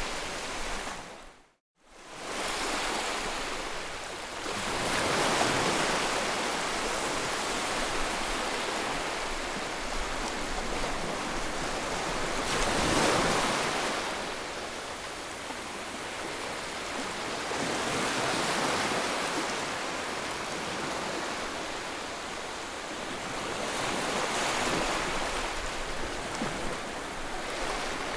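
Ocean surf: waves washing in, the rush swelling and fading about every five or six seconds, with a brief cut to silence about a second and a half in.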